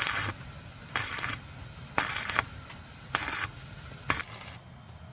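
Five rough scraping strokes, about one a second and each under half a second long; they stop near the end.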